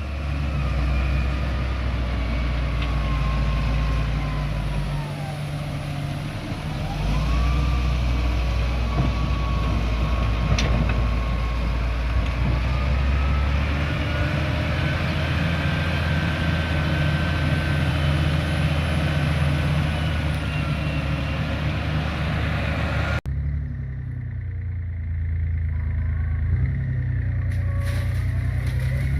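Heavy construction machinery's diesel engine running, its pitch stepping up and down with load, with a thinner whine gliding up and down above it. The sound changes abruptly about 23 seconds in.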